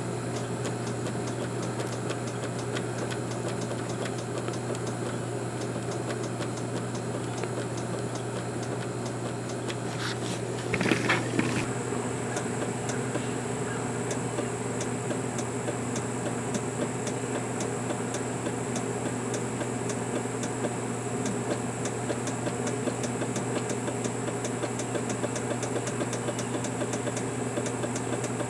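Yamaha outboard's starting circuit clicking repeatedly as the key is turned while the engine does not crank, over a steady low hum, with a louder clatter about eleven seconds in. This is the so-called Yamaha starter click, which the owner blames on a failing starter relay.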